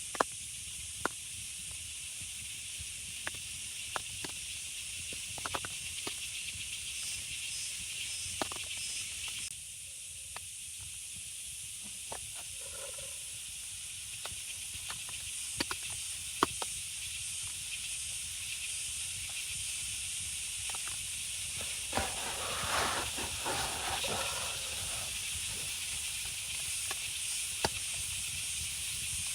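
Steady rain hiss with scattered sharp ticks of drops, and a brief louder rustle a little after two-thirds of the way in.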